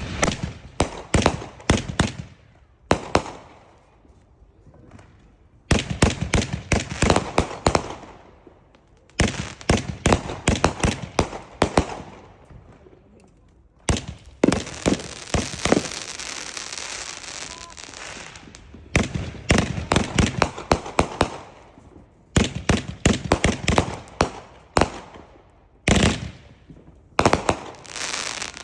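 Wings of Wrath firework going off in volleys of rapid sharp cracks, each volley lasting a second or two with short pauses between. Midway a few seconds of steady hissing crackle.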